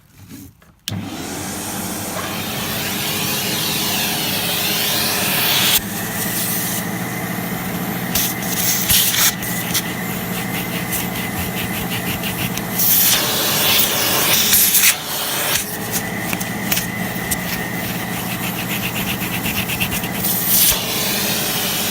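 Sebo X1 upright vacuum cleaner switched on about a second in and running steadily, with a high whine over its motor hum and intermittent clicks and rattles as it works.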